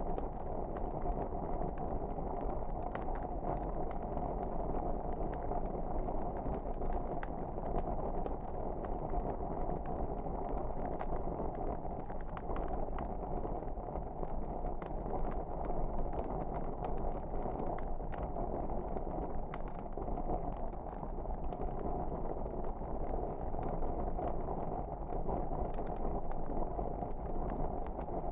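Wood fire burning in a fireplace: a steady low rushing sound with faint, scattered crackles and pops throughout.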